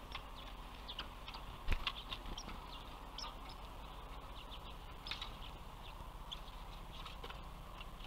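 Small songbirds giving short, high chirps scattered throughout, with one sharp knock about two seconds in, over a faint steady hum.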